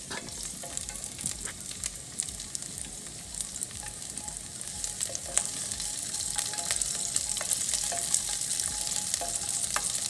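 Garlic cloves and ginger sizzling in hot oil in a pot, with frequent sharp crackling pops; the sizzle grows gradually louder.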